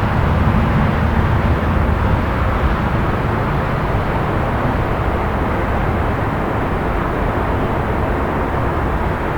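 Steady city traffic rumble at night, a dense low hum with no distinct events, slightly heavier in the first few seconds.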